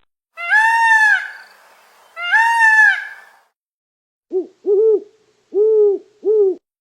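Recorded animal calls: two long, high, arched calls, then after a pause four short, lower hoot-like calls.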